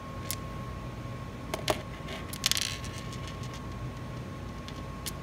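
Light clicks and a brief metallic rattle from the bits and shafts of a Klein 8-in-1 HVAC screwdriver being handled, the sharpest click a little under two seconds in and the rattle about half a second later, over a steady low hum.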